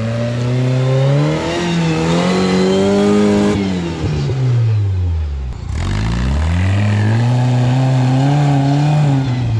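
Off-road rig's engine revving hard as it strains up a steep rock climb, in two surges: the pitch rises and holds for a few seconds, drops away about four seconds in, then rises and holds again before falling off near the end.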